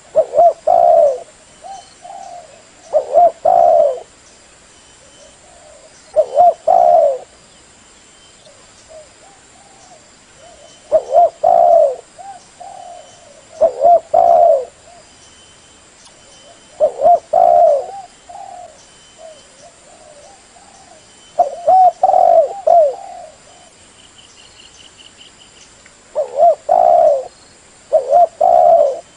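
Female spotted dove cooing, the hen's call used to rouse male doves. About nine short cooing phrases, one every three seconds or so.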